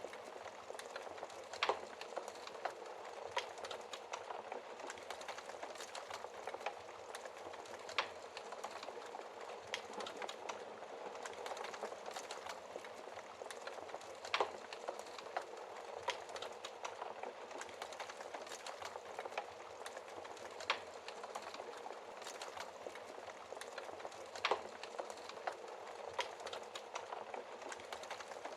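Wood fire burning in a fireplace: a steady soft hiss and crackle of flames, with sharper pops from the burning wood every few seconds.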